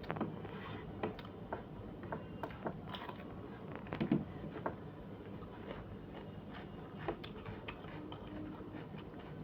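Eating sounds: scattered soft clicks and small taps at an uneven pace, with a louder knock about four seconds in.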